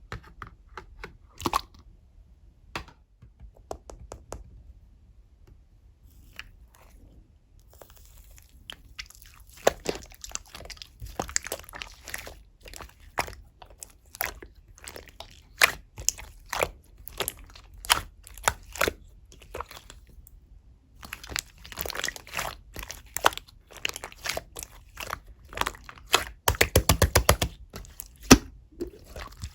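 Slime being handled by hand, making crackling, popping clicks: sparse at first, dense from about eight seconds in, with a short pause about twenty seconds in and a quick run of pops near the end.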